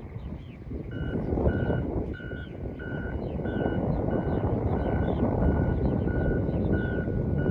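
A vehicle's reversing alarm beeping at one steady pitch, about one and a half beeps a second, starting about a second in over a loud low rumble. Short bird chirps sound throughout.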